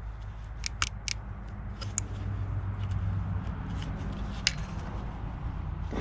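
A handful of sharp clicks and taps from hand tools and fittings being worked loose on the engine, spaced irregularly, over a steady low hum.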